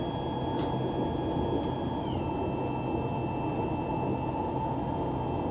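Steady running noise inside a moving high-speed train carriage, with a low hum and a faint thin electric whine that steps down in pitch about two seconds in.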